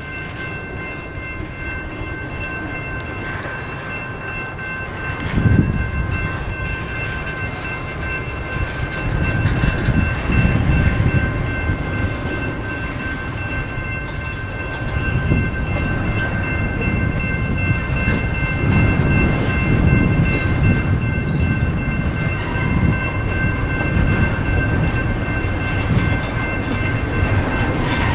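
Double-stack intermodal freight cars rolling through a grade crossing: a rumble of wheels on rail that swells and fades car by car, with a heavy clunk about five seconds in. The crossing's bells keep ringing over it as steady high tones.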